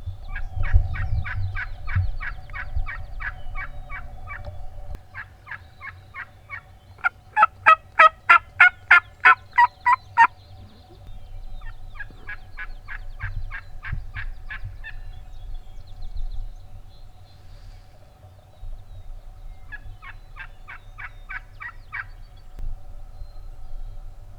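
Wild turkey yelping: several runs of evenly spaced yelps, about three a second, with pauses between the runs. The loudest and closest run comes about a third of the way through.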